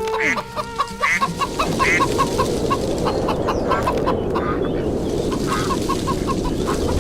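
Chickens clucking steadily. From about a second in, a whooshing rush of wind rises beneath them.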